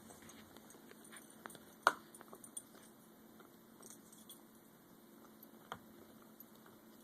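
Dogs handling a bone: faint scattered clicks and taps, with one sharper click about two seconds in and another near six seconds.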